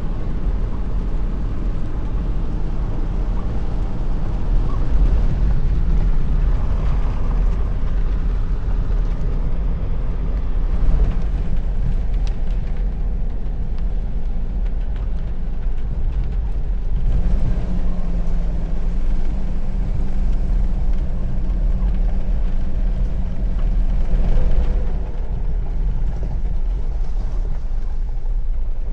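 Wind and heavy rain, with gusts buffeting the microphone in a steady deep rumble.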